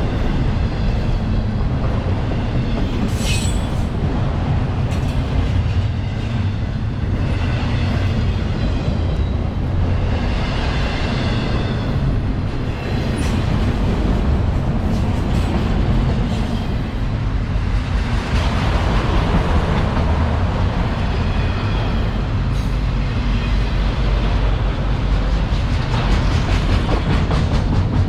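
Freight cars of a CSX manifest train rolling past close by: a steady heavy rumble of steel wheels on rail, with faint, brief wheel squeals now and then.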